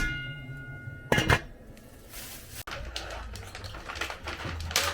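Kitchenware clattering: a sharp clink that rings briefly, a second knock about a second later, then a run of light clicks and rattles.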